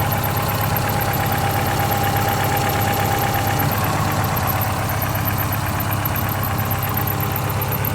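2000 Subaru Forester's flat-four engine idling steadily, cold, with a faint squeak from the auxiliary drive belts that the owner expects to go away once the engine warms up.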